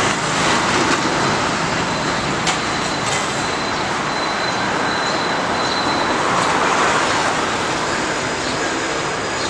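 Steady roadside traffic noise: a continuous wash of passing vehicles on a busy street.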